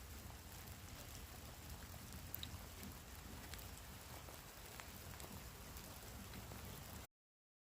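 Light rain falling, with scattered distinct drips of single drops among a soft, even patter. The sound cuts off suddenly to silence about seven seconds in.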